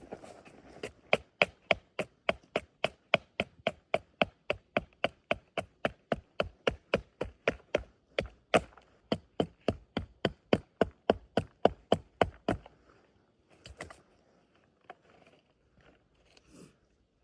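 A rapid, evenly paced series of sharp knocks, about three a second, that stops after about twelve seconds, followed by a few scattered softer knocks.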